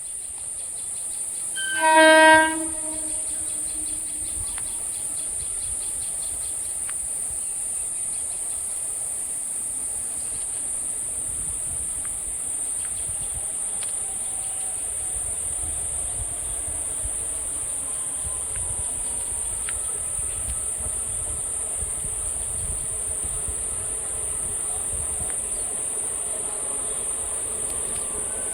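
Electric multiple unit (EMU) local train sounding its horn once, briefly and loudly, about two seconds in, then running past with a steady rumble of wheels on the rails.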